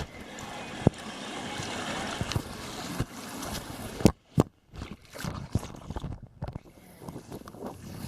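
A steady rush of water with wind on the microphone, broken by several sharp knocks. The two loudest knocks come close together about four seconds in, after which the sound breaks up and drops away in moments.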